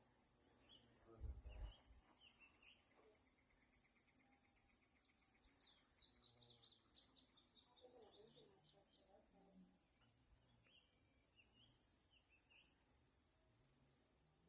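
Faint, steady high-pitched insect chorus of crickets, with scattered bird chirps and a quick bird trill a few seconds in. A brief low thump about a second in.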